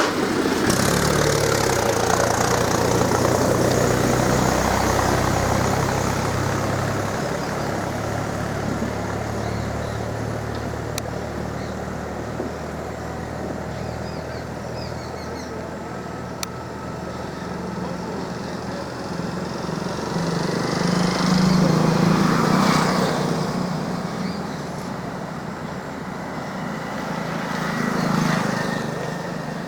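Motor vehicle engines running, with two louder swells about two-thirds of the way through and near the end as vehicles pass close by.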